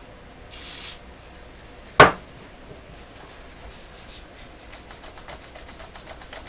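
A brief hiss, then a sharp knock about two seconds in, then a cloth rubbing back and forth on metal in quick, even strokes, about five a second, growing louder toward the end. The cloth is wiping dried grease off the radio's metal part with WD-40.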